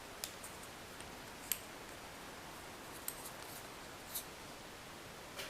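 Faint, scattered clicks and ticks of small parts being handled as a new flat faucet washer is fitted onto a shower valve stem.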